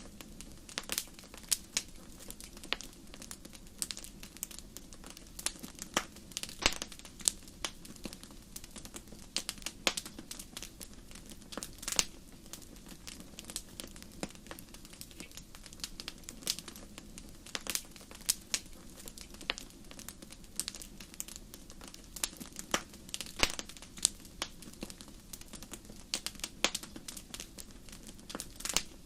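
Wood fire crackling in a fireplace: irregular sharp pops and snaps, several a second, some much louder than others, over a steady low rush of the flames.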